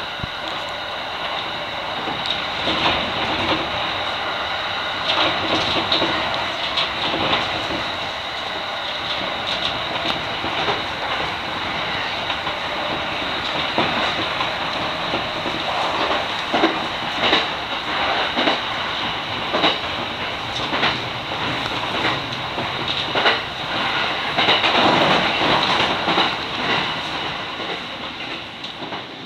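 Electric commuter train running at speed, heard from on board, with steady running noise and wheels clicking over rail joints and points, fading out at the very end.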